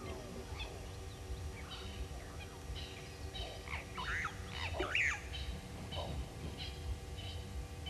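Several wild birds calling and chirping at once, with overlapping short calls; the loudest is a quick sweeping whistle about five seconds in.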